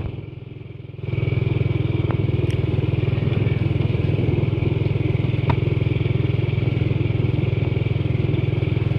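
Motorcycle engine running at a steady pace while being ridden. The sound drops away for about the first second, then carries on evenly.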